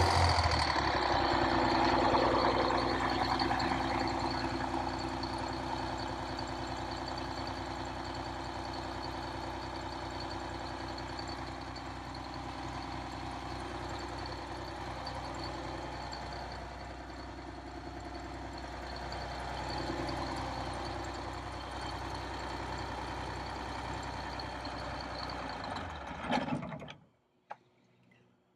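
Detroit Diesel 6V92 two-stroke V6 diesel in an MC9 coach running after a cold start. It eases down from a louder, higher speed to a steady idle over the first few seconds, then cuts off shortly before the end.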